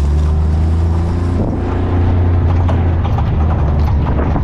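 A small engine running steadily with a low hum that shifts slightly in pitch about a second and a half in, with irregular knocks over it.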